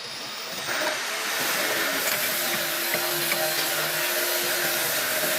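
Electric-motor-driven metalworking machine running steadily with a hissing whir and faint steady hum tones; it gets louder a little under a second in and stays level.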